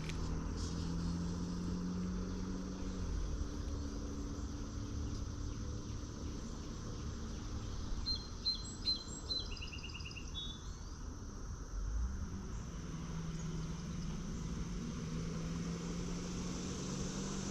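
Outdoor ambience with a steady low hum in the background. About eight seconds in, a small bird gives a quick series of high chirps, followed by a lower trilled phrase.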